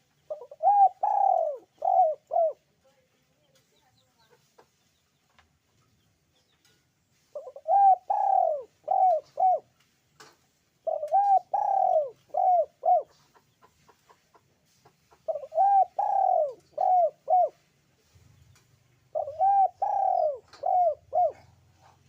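Puter pelung dove (domestic ringneck dove) cooing: five phrases, each a longer first coo followed by three or four shorter ones, repeated every few seconds.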